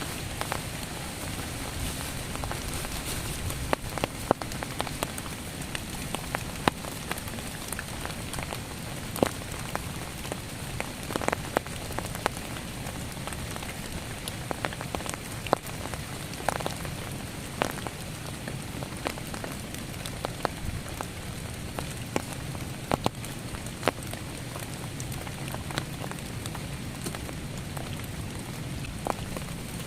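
Heavy rain falling steadily, with irregular louder drops striking close by.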